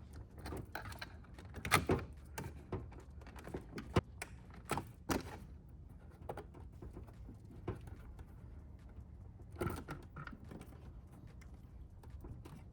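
Irregular sharp plastic clicks and handling noises as wiring connectors are unclipped and pulled from the back of a van's door panel, over a faint low hum.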